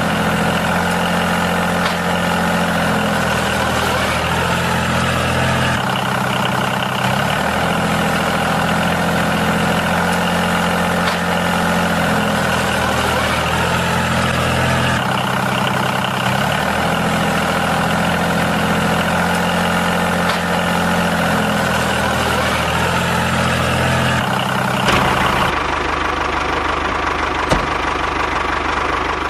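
A small engine running steadily at idle, its sound jumping abruptly a few times as if cut together.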